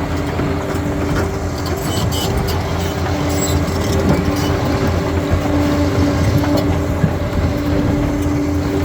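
Bulldozer's diesel engine running steadily under load, with scattered sharp clicks and knocks over it.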